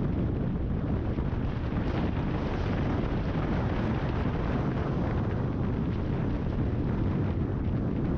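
Steady wind rush on the camera microphone of a Kawasaki ZX-10R at riding speed, with the bike's inline-four engine running underneath at a fairly constant pace.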